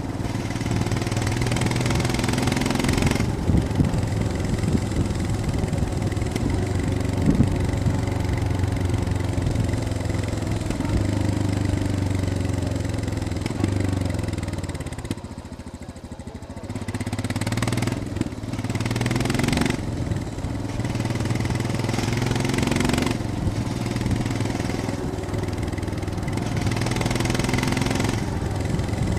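Royal Enfield Scram 411's single-cylinder engine running while riding. About halfway through, the engine note falls and quietens as the throttle closes, then picks up again, with further small rises and falls in engine speed.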